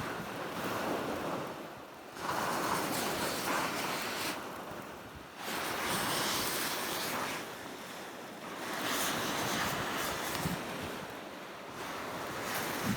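Sea waves breaking and washing onto the shore, surging and falling back every few seconds, with wind on the microphone.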